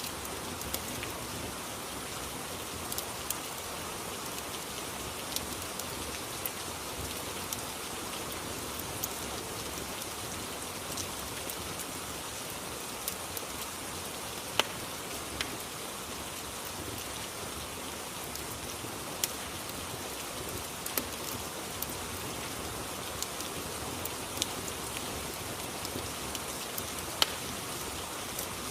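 Steady rain ambience with irregular sharp pops now and then from a fireplace crackling.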